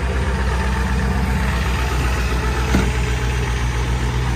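Ford 7.3 Power Stroke V8 turbo diesel running steadily just after a cold start, with no block heater in sub-freezing weather. A short click comes about three seconds in.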